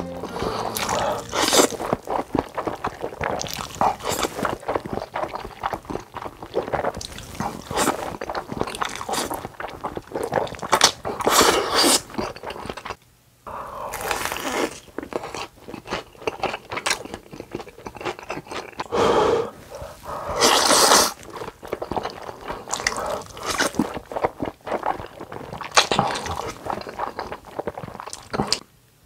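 Close-miked eating: chewing and crunchy bites with many small mouth clicks and several louder noisy bursts. The sound drops out briefly about halfway through and again near the end.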